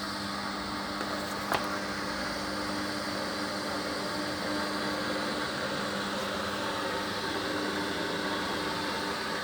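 Hoover HLW585DC washer dryer spinning a full load, a steady motor hum with a single sharp knock about one and a half seconds in. The load is badly unbalanced, so the machine rocks and bounces on the floor.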